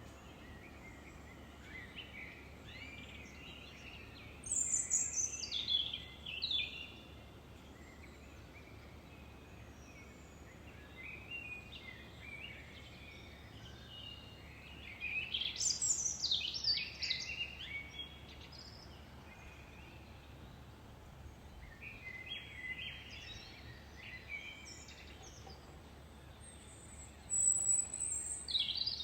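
Songbird singing in short phrases of one to two seconds, each starting high and tumbling down in pitch, about four phrases with fainter chirps in between, over a faint steady background hiss.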